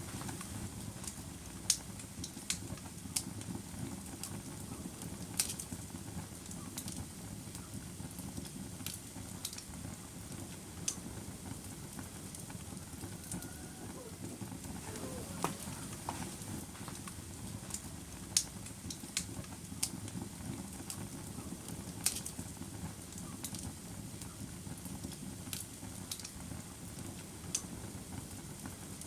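Wood fire crackling: a steady low rustle of burning with sharp pops at irregular intervals, a few of them louder than the rest.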